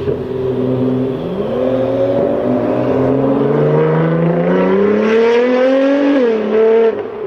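Nissan GT-R R35's twin-turbo V6 through straight-piped exhaust, its pitch rising steadily for about five seconds as the car accelerates, then dropping sharply about six seconds in, as at a gear change or lift-off.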